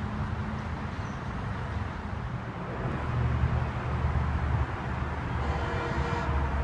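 Low rumble of a distant Metro-North commuter train on the tracks, mixed with wind buffeting the microphone, growing louder about halfway through. A faint, brief pitched sound comes near the end.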